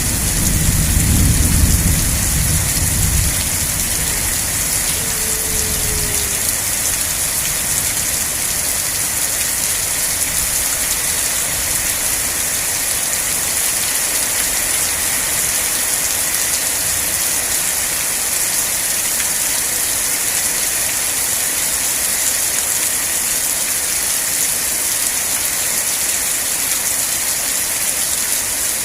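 Steady rain, a continuous even hiss of drops on surfaces, with a low rumble of thunder dying away in the first few seconds.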